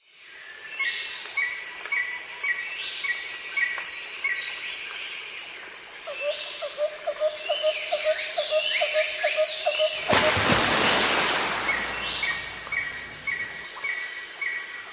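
Birds chirping and calling: rows of short, evenly repeated chirps with higher sweeping notes over them, fading in at the start. A loud hissing rush breaks in about ten seconds in and lasts a couple of seconds.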